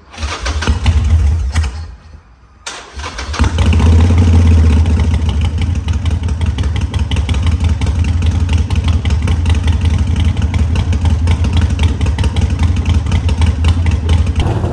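Harley-Davidson Forty-Eight's air-cooled 1200 cc V-twin, fitted with Vance & Hines Shortshots exhaust, being started. A first burst of engine noise dies away after about two seconds. The engine starts again about three seconds in and settles into a loud, steady idle.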